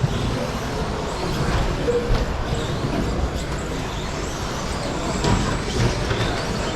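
Electric RC short-course trucks racing on a carpet track: a steady mix of motor and tyre noise, with a few short knocks.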